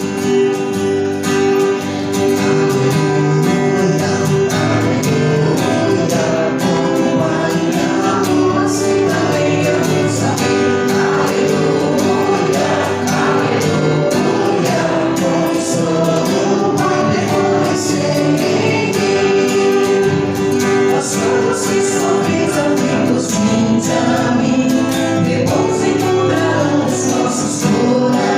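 Choir singing the Gospel acclamation at Mass, with instrumental accompaniment.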